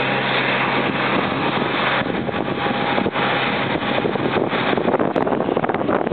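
Jet engines of an Airbus A320 at take-off thrust, a loud steady rushing noise, with wind buffeting the microphone. A few faint steady hums under the rush fade about two seconds in, and the noise turns more gusty.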